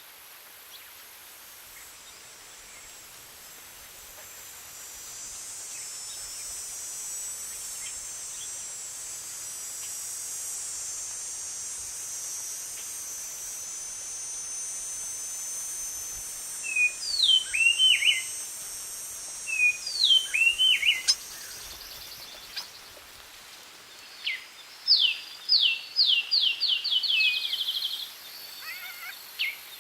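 Woodland sounds: a steady high insect hiss swells and then fades about two-thirds of the way through. Over it a songbird calls with short downward-slurred notes, then gives a quick run of falling whistled notes, about four a second, near the end.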